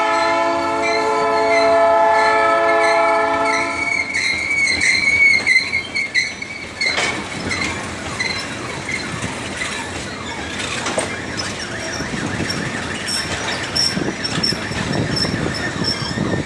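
Freight train locomotive horn held as a steady multi-tone chord, stopping about four seconds in. Loaded sulphuric-acid tank cars then roll past with wavering, high-pitched wheel squeal and occasional knocks over rail joints.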